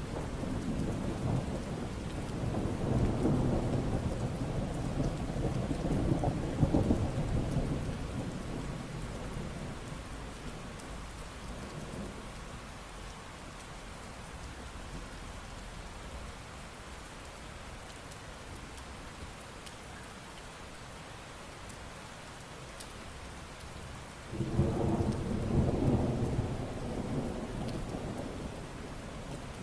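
Steady rain with rolling thunder: a long low rumble that fades over the first eight seconds, and a second clap of thunder that breaks suddenly about 24 seconds in and rolls away over a few seconds.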